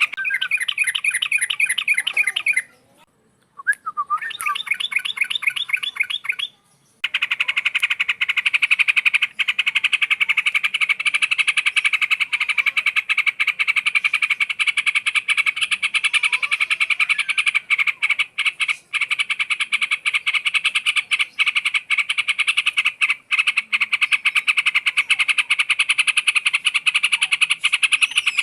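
Trucukan (yellow-vented bulbul) calling in a rapid, continuous chattering trill, loud and steady. It breaks off twice into brief silence in the first seven seconds, then runs on unbroken.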